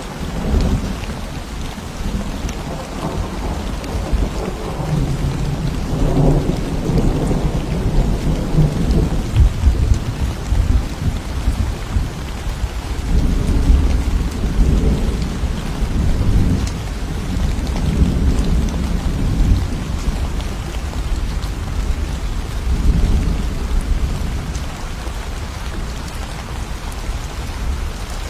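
Thunder rumbling low in long rolls that swell and fade about three times, over steady rain.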